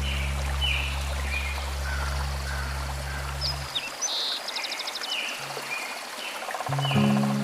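Songbirds chirping in short repeated calls, with a quick trill a little past the middle, over the steady rush of flowing stream water. A low held music chord underneath stops just past halfway, and soft music notes come back near the end.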